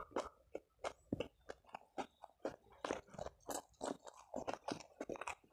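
A person chewing close to the microphone, mouth open, on rice and balado side dishes: a quick, uneven run of wet smacks and crunches, about three or four a second.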